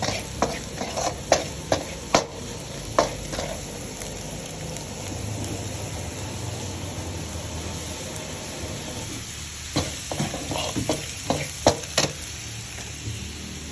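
Baby squid sizzling as it fries in fish sauce in a pan, stirred with a utensil. A cluster of sharp clacks against the pan comes in the first few seconds and another near the end, with steady frying in between.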